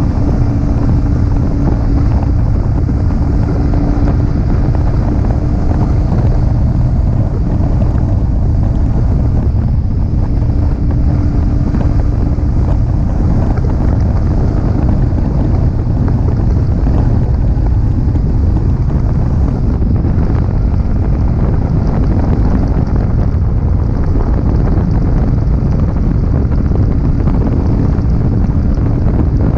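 Yamaha R15M's 155 cc single-cylinder engine running steadily while riding, with heavy wind buffeting on the action camera's microphone.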